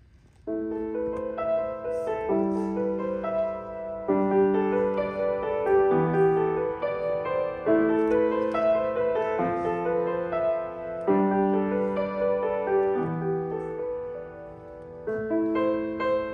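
Piano playing: a slow piece of held chords, each ringing for a second or two before the next, starting about half a second in.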